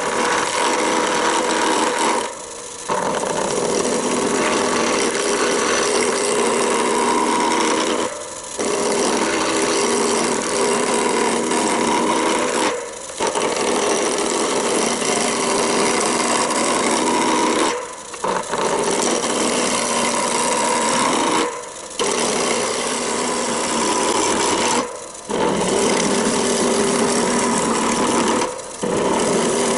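Roughing gouge cutting into a spinning elm blank on a wood lathe: a continuous rough cutting noise over the lathe's steady hum. It breaks off briefly about every four to five seconds, seven times, as the gouge eases off the wood between passes. The blank is still out of round.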